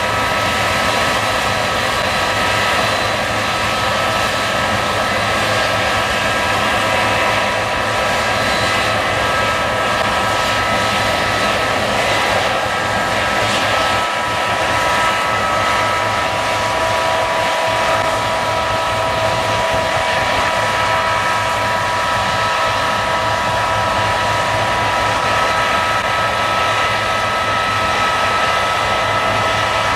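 Case combine harvester running steadily while harvesting barley: a steady mechanical rush with several high held whining tones, and a lower whine joining about halfway through.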